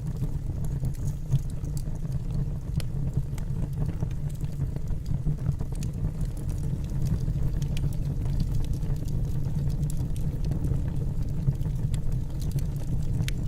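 Wood burning in a fireplace: a steady low rumble of the fire with scattered small crackles and pops from the logs.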